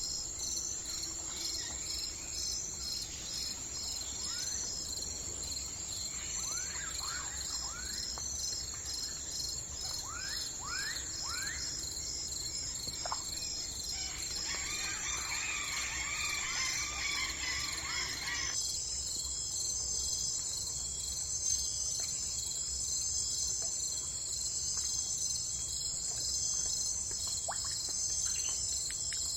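A steady chorus of crickets chirping. Through the first half a bird gives short, quick chirps, then a warbling song for a few seconds. About two-thirds in the insect chorus changes abruptly in tone, as at an edit in the recording.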